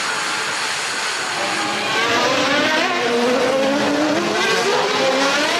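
Several 1993 Formula One cars' 3.5-litre naturally aspirated engines at high revs, their notes climbing and dropping through gear changes, louder from about two seconds in as the cars come closer.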